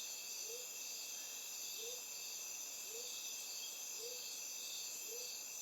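Faint chorus of insects (crickets), a steady high shimmer, with a soft low call repeating about once a second.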